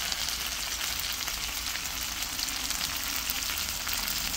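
Plum-marinated chicken wings frying in a pan with cucumber and carrot, a steady sizzle with many small crackling pops.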